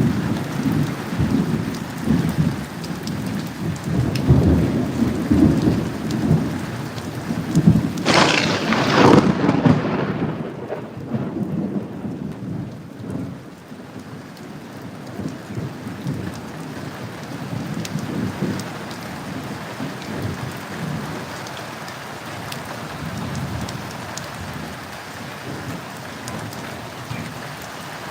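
Thunder rumbling over steady rain, with a sharp, loud thunderclap about eight seconds in. The rumbling dies away after about twelve seconds, leaving the rain alone.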